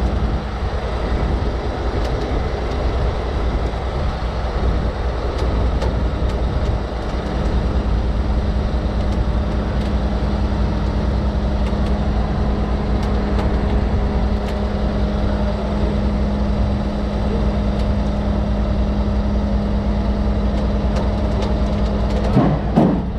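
Heavy wrecker's diesel engine running at a steady speed to drive the hydraulics during a winching pull, with a steady hum over it. A short louder sound comes near the end.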